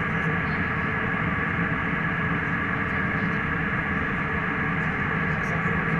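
Airliner cabin noise in flight: a steady rush of airflow and engine drone at an even level, with a faint steady whine over it.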